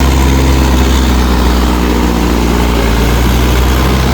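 Mahindra 585 DI tractor's diesel engine running steadily.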